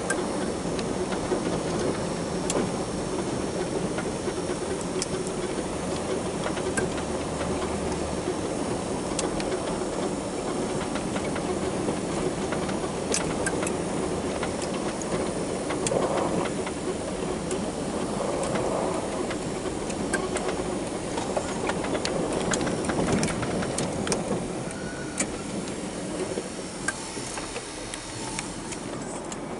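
Small hydrostatic garden tractor's engine running steadily while plowing snow, with scattered sharp clicks and clanks.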